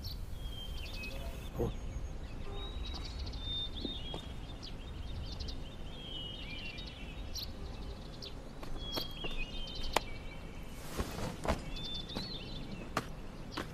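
Quiet outdoor background with small birds chirping on and off in short high twitters. There are a few faint clicks, and a brief scuffing noise comes near the end.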